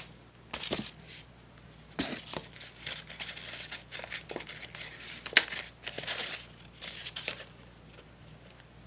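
A sheet of paper crinkling and rustling in irregular bursts as it is handled and folded, with a sharp crackle about five and a half seconds in.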